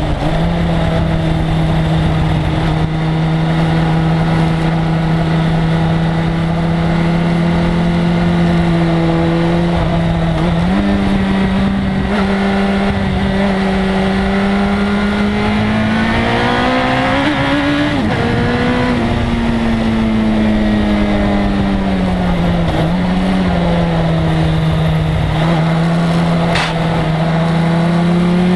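1997 Suzuki GSX-R1100's inline-four engine running hard at speed, holding steady revs for about ten seconds, then climbing to a peak about two-thirds through, dropping back and dipping, and rising again near the end.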